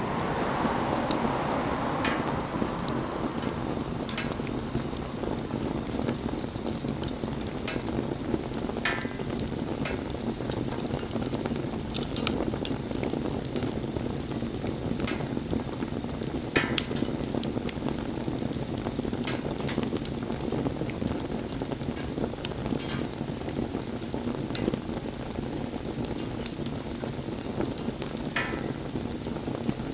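Wood bonfire burning: a steady hiss and rustle of flames with scattered sharp crackles and pops from the burning wood.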